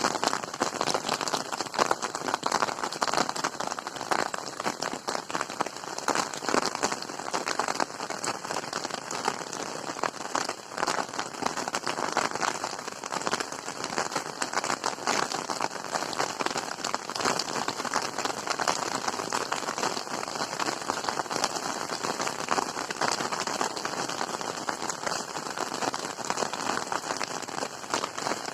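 Steady rain falling, a dense patter of countless drop ticks that keeps an even level throughout.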